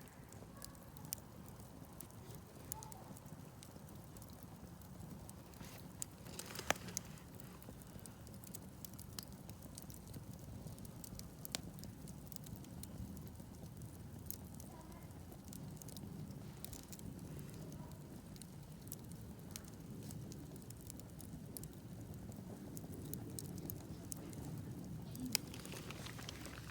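Wood campfire crackling: scattered sharp pops and snaps over a low, steady rustle of the flames, with the loudest pops about seven seconds in and near the end.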